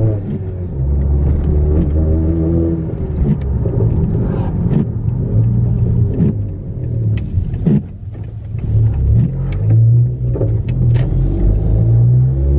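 Straight-piped, turbocharged engine of a modified 10th-gen Honda Accord running under load while driving, with its exhaust note dropping briefly about eight seconds in and then picking up again.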